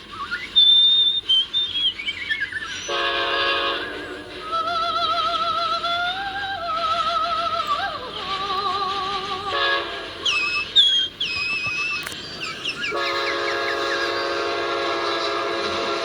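Amtrak locomotive horn blowing a short blast about three seconds in and a long steady one from about thirteen seconds on. Between the blasts a voice sings a wavering tune, and birds chirp around ten seconds in.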